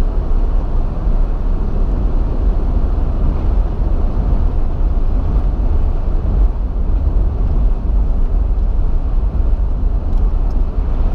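Steady road and engine noise heard inside a moving car's cabin: a continuous low rumble with tyre hiss.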